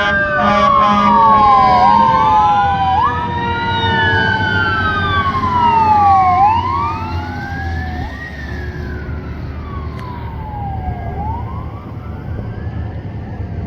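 Fire apparatus sirens wailing, several at once in overlapping rising and falling sweeps, with a steady blaring horn tone in the first two seconds. The sirens grow quieter after about six seconds as a fainter wail carries on over low truck rumble.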